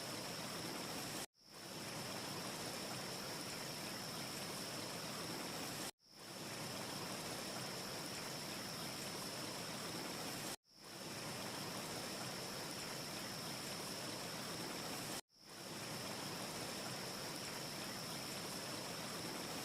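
Steady rushing ambience noise with a thin high tone on top, a short loop that cuts out abruptly four times, about every four and a half seconds, and fades back in each time. No fire crackle can be made out.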